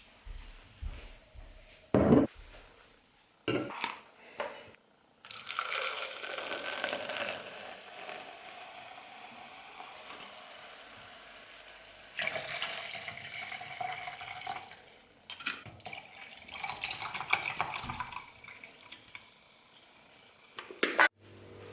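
Water running from a tap into a sink in two long stretches, with clinks of dishes in it, after a couple of sharp knocks.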